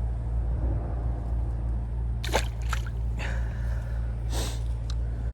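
Water sloshing and splashing a few times, in short bursts from a little after two seconds in to about four and a half seconds in, as a small caught bass is put into the water, over a steady low rumble.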